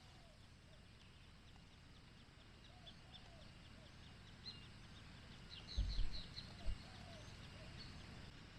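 Birds chirping in quick short calls over quiet outdoor background noise. A few dull low thumps come about six seconds in.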